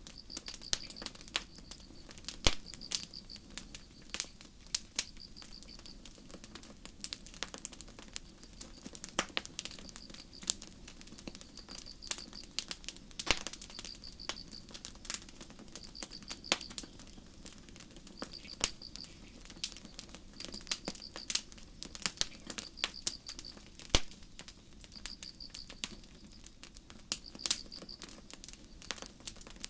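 Campfire burning with irregular sharp crackles and pops over a low rush, while crickets give short pulsing high chirps every second or two.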